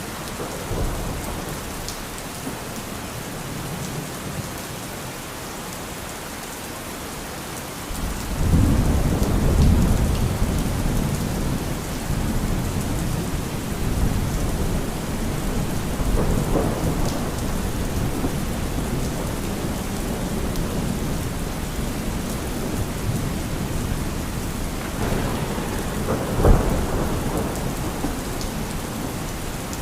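Steady rain falling, with thunder rumbling in. The low rumble comes in suddenly about eight seconds in, carries on, and swells again near the end.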